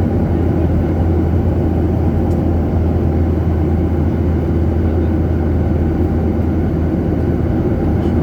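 Steady cabin noise of a jet airliner in flight: a constant low engine hum under a dense airflow rumble, unchanging throughout.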